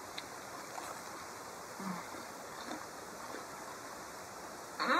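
Faint close-up chewing of a fried chicken sandwich, with soft mouth clicks. Right at the end a loud, rising drawn-out call cuts in.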